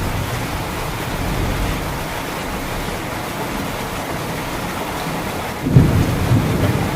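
Steady rain, with a low rumble of thunder breaking in suddenly near the end.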